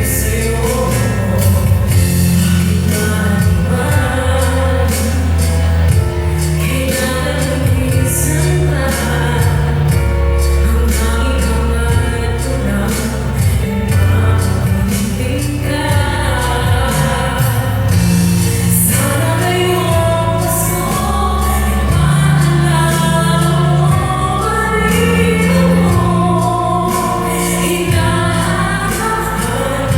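A woman singing live over amplified backing music with a steady bass line, her voice moving through long, sliding melodic lines.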